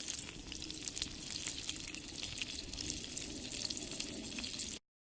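Gyoza frying in an iron skillet: a steady sizzle with many small pops of hot oil, cutting off abruptly near the end.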